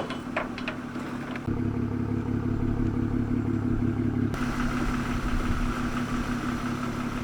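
A vehicle engine running steadily, a low even drone. The sound changes abruptly about a second and a half in and again about four seconds in.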